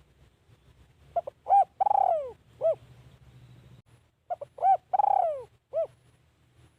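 Spotted dove cooing: two phrases about three seconds apart, each a couple of quick short notes, then a longer falling coo and a short closing note.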